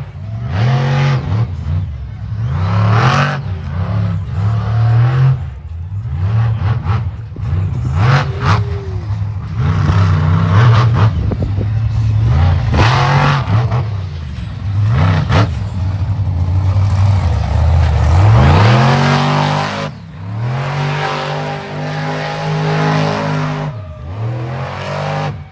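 Monster truck engine revving hard again and again, its pitch climbing and dropping with each burst of throttle, with one long climb to high revs about eighteen seconds in.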